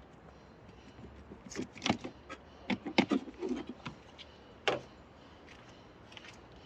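Irregular clicks and knocks of hand work on a car's wiper assembly, with tools and parts being handled and set down. The sharpest ones come in a cluster from about one and a half to five seconds in.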